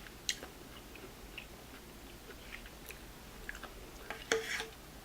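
Quiet close-miked chewing of noodles, with a few short scattered clicks and a brief louder wet mouth sound about four seconds in.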